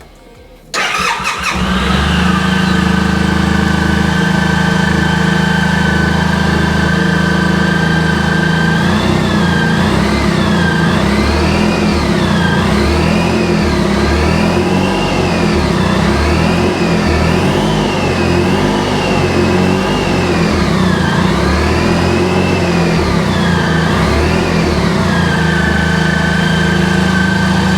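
Suzuki Burgman 650 Executive's parallel-twin engine starting about a second in and idling steadily. From about nine seconds in it is revved over and over, each rev rising and falling, and near the end it settles back to idle.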